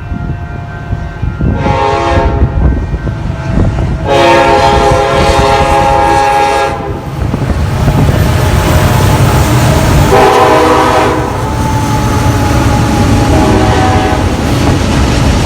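Union Pacific SD70ACe diesel locomotive sounding its air horn in several blasts (a short one about two seconds in, a long one of about three seconds starting around four seconds in, another about ten seconds in, and one near the end) over the steady rumble of the passing train.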